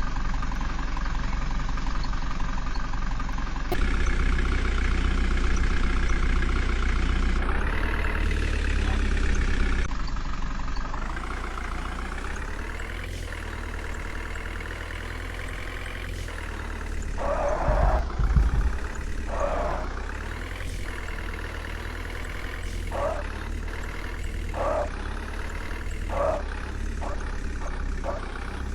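JCB backhoe loader's diesel engine running and revving up and down as it works. A heavy low thud comes about two-thirds of the way in, and there are several short, sharper bursts near the end.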